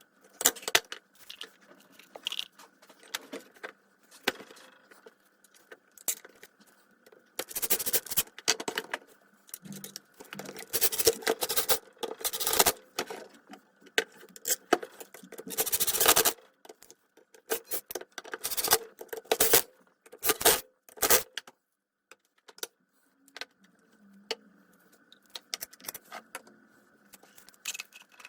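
Small metal parts and tools clicking, clinking and scraping in irregular bursts during hands-on disassembly and cleaning of a circular saw, with a faint steady hum underneath.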